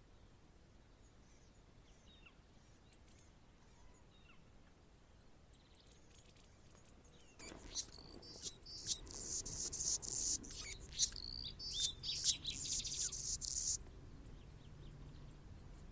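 Anna's hummingbird singing: a few faint high chips, then about halfway through a loud run of high squeaky and buzzy notes lasting about six seconds before it stops.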